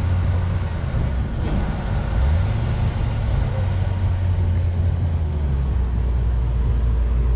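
A car engine running with a low, steady rumble. Its pitch climbs about two seconds in and drops lower again around five seconds in.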